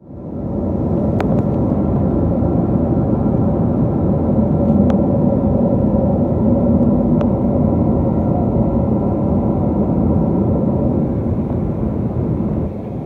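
Boeing 777-222A in flight, heard inside the cabin: a steady rush of airflow and engine drone with a constant low hum. A few faint clicks sound over it.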